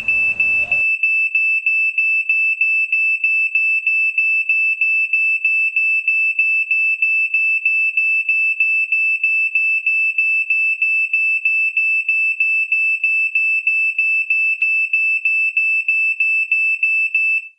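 Smoke alarm sounding: a single high-pitched electronic beep repeating about three times a second without a break. It cuts off abruptly just before the end.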